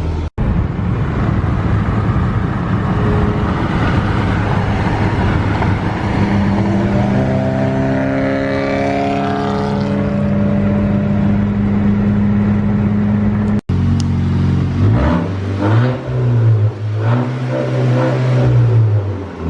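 Volkswagen Golf GTI's turbocharged four-cylinder sounding through an aftermarket J2 Engineering cat-back exhaust as the car is driven: a steady rumble, then the engine note climbing as it accelerates and holding. After an abrupt cut near the middle, the revs swing up and down several times.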